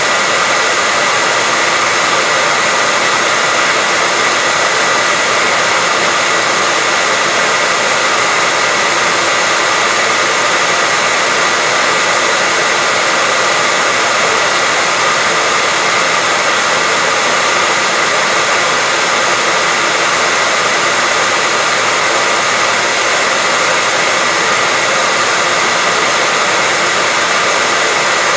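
Hair dryer running steadily: a constant rush of air with a steady high whine from its motor, unchanging throughout.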